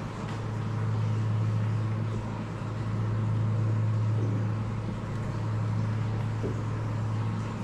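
Steady low machine hum, even in pitch, with a few faint ticks.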